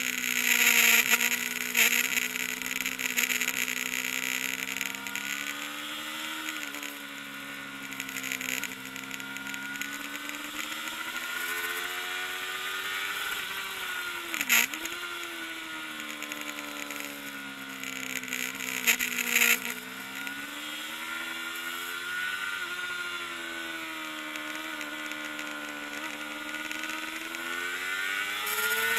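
Kawasaki ZXR400's inline-four engine running at high revs, its pitch rising and falling again and again as the throttle is opened and closed. There is a sharp drop and quick recovery in pitch about halfway through, and bursts of rushing noise near the start and about two-thirds through.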